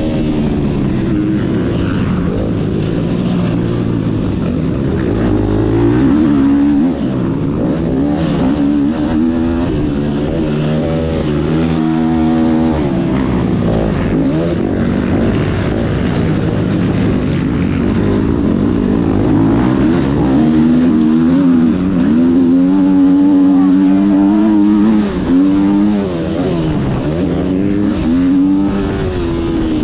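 Motocross bike engine running hard, its pitch climbing and dropping over and over as the throttle opens and closes and the gears change.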